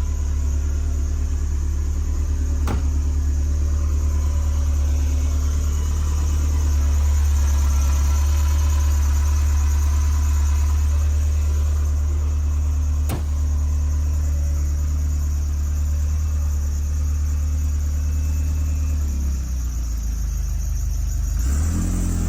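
1978 Ferrari 308 GTS's carbureted 2.9-litre quad-cam V8 idling steadily through its four-exit ANSA exhaust, warming up after a cold start with the choke partly out. Two sharp clicks sound about 3 and 13 seconds in, and the idle note shifts near the end.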